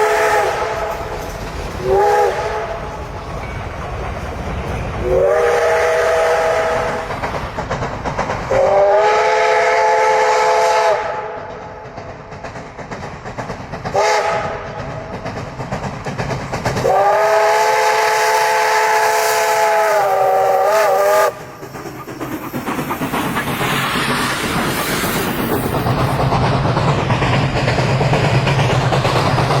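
Steam locomotive whistle sounding a series of short and long blasts, each a chord of several tones, the longest about four seconds and cut off sharply. After that the train runs on with a steady rumble and clatter of its wheels on the rails.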